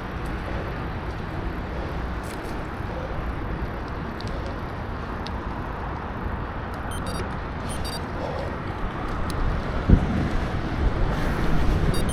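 Steady rushing wind and road noise from riding a bicycle, with motor traffic. There is a sharp knock about ten seconds in, and the noise grows louder near the end.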